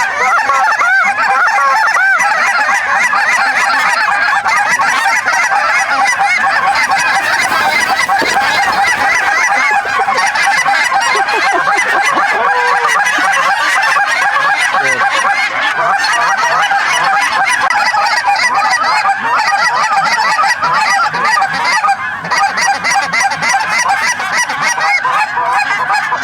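Many geese honking and calling at once in a dense, continuous chorus of short overlapping honks.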